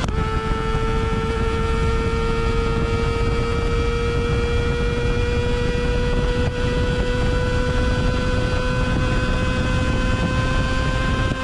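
Kawasaki ZX25R inline-four engine through a Yoshimura R77 exhaust, heard from the tail of the bike while riding. The high-pitched exhaust note drops with a gear change right at the start, then climbs slowly and steadily as the bike pulls in gear, with low wind rumble underneath.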